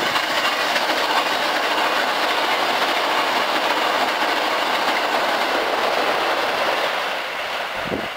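Hankyu 9300 series eight-car limited express train passing close at speed without stopping: a steady loud rush of wheels on rail, fading near the end as it pulls away.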